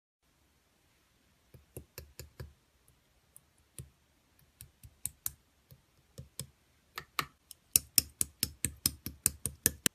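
Slime being pressed and squeezed by hand, making a run of sharp clicks and pops, a few scattered at first, then coming quickly, about five a second, near the end.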